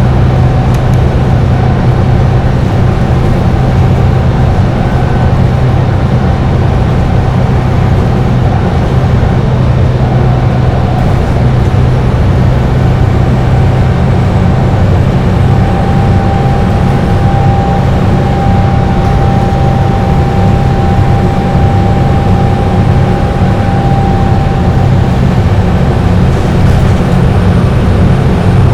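Dennis Trident double-decker bus engine running steadily at highway cruising speed, a continuous low drone. A thin steady whine sits above it and grows stronger past the middle.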